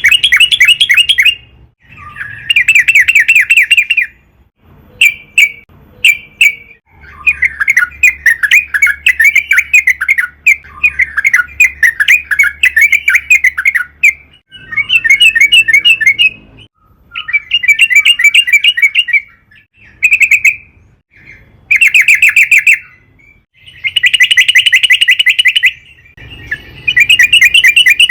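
Yellow-vented bulbul singing: loud bursts of rapid bubbling notes, phrase after phrase with short pauses between them.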